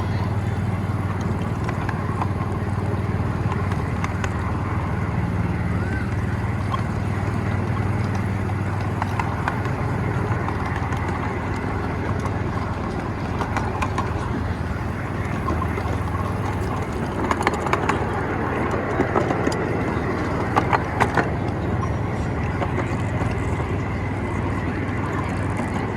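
Miniature ride-on train running along its track: a steady low drone and rumble, with a run of sharp clicks and clacks in the second half.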